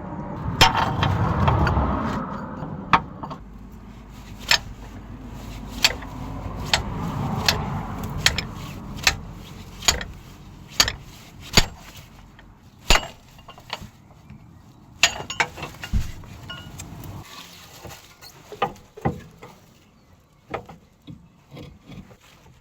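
Hand tools working on a car's front suspension: sharp metallic clinks and knocks, about one a second, over a rumbling noise that rises and falls in the first half and then dies away.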